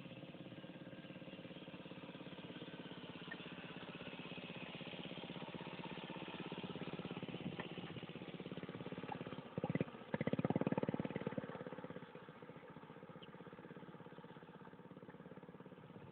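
Vintage minibike's small engine running as it rides toward the listener, getting gradually louder, passing close by about ten seconds in as the loudest moment, then dropping back and running on more quietly.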